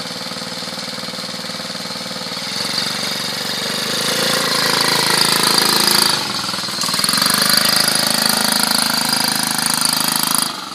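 Pocket bike's small engine running and revving up about two and a half seconds in, easing off briefly near the middle, then pulling hard again before its sound drops off sharply near the end.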